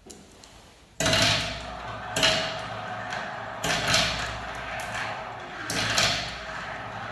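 Marbles rolling down a spiral marble-run track, starting suddenly about a second in, a continuous rolling rattle with louder swells every couple of seconds as the balls go round the turns.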